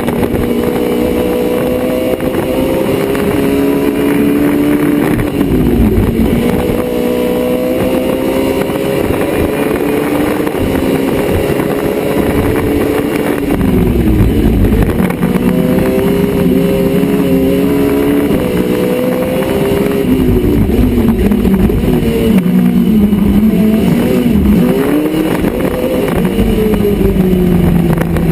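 Citroën Saxo 1.6 16-valve four-cylinder race engine, heard from inside the car at racing speed. Its revs climb and fall as it works through the gears of its sequential gearbox, with several sharp drops in pitch followed by climbs.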